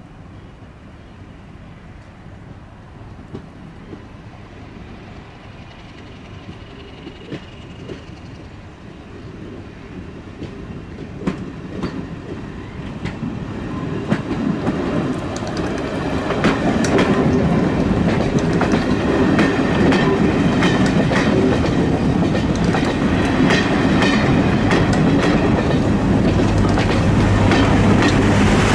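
A diesel-worked passenger train, Class 31 locomotive 31289 with coaches and a van, approaching and passing close by, growing steadily louder. The wheels click over rail joints, the clicks growing denser as the coaches go past.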